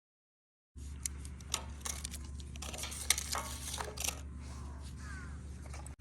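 Light clinks and clicks of small hard objects being handled, over a steady low rumble; they start after a short silence.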